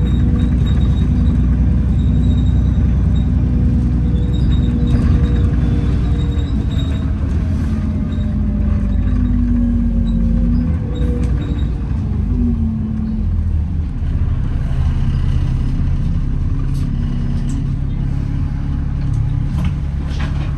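Interior of an Alexander Dennis Enviro400 double-decker bus on the move: a heavy low rumble from the engine and running gear. Over it is a whine that slides down in pitch over several seconds in the middle, typical of the loud axle whine on this bus as it slows. Afterwards the bus settles into a steadier, lower running sound.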